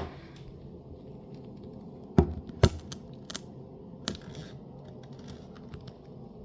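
Sharp plastic clicks and knocks from a top-load washing machine's detergent dispenser being handled: one at the start, two loud ones close together about two seconds in, then a few lighter ticks.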